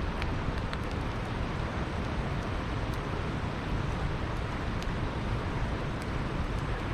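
Campfire crackling, with a few sharp pops, over the steady rush of flowing river water.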